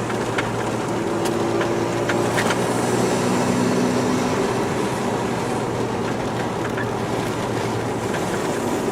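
Inside the cabin of a Mazda RX-7 FD3S while driving: a steady rotary engine and road drone with a few sharp clicks and creaks scattered through it, two close together about two and a half seconds in. These are the clunking and squeaking noises the car makes in its cabin over bumps.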